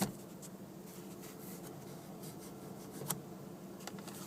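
Faint rubbing and a few light plastic clicks from handling the sun visor and its vanity mirror, over a low steady hum.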